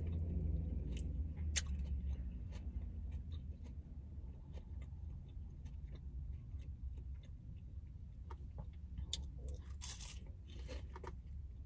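Close-up chewing of crisp lettuce salad: irregular small crunches and clicks, denser for a moment near the end as another forkful goes in.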